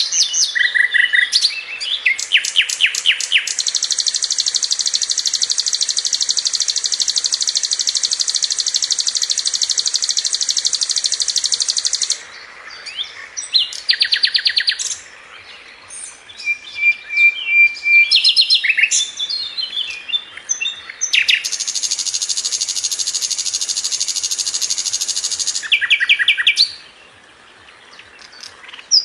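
A sikatan londo flycatcher singing continuously: quick runs of sharp high notes and chattering phrases, broken by two long, even, very high trills that each last several seconds.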